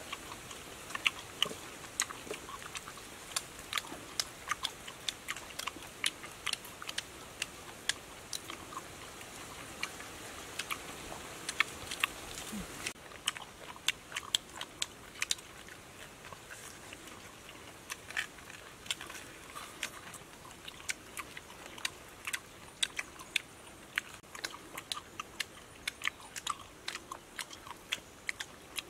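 People chewing and biting into roasted pig leg up close, with many sharp, irregular clicks and smacks of mouths and teeth on meat.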